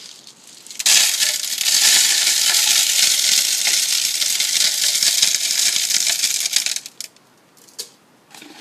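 Bird seed poured from a plastic jar through a cut-off milk jug into a bird feeder: a dense, steady rattle of seeds that starts about a second in and stops about seven seconds in. A few light clicks follow near the end.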